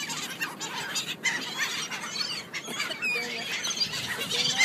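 A flock of gulls calling, many short overlapping squawks and cries at once, as they crowd in to be fed.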